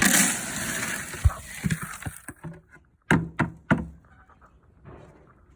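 Dry horse feed poured in a rush into a feed bucket for about two seconds, then three sharp knocks in quick succession.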